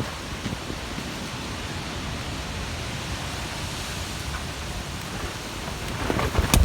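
Steady rain hiss with a low rumble of wind buffeting the microphone; a few sharp knocks near the end.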